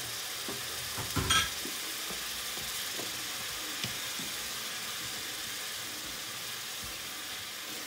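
Onion and ginger-garlic paste sizzling steadily in a frying pan as a wooden spoon stirs in coconut powder. A short clatter with a ring about a second in.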